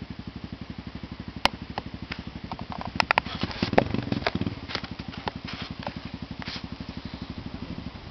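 Trail motorcycle engine idling with an even putter of about ten beats a second, with a few sharp clicks over it; the engine cuts off near the end.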